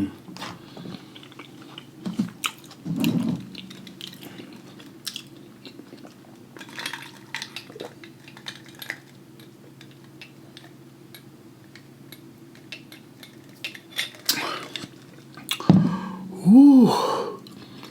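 Close-miked eating: chewing with scattered small clicks and taps of utensils, dishes and shells while working through a seafood boil. A drawn-out "ooh" of enjoyment comes near the end.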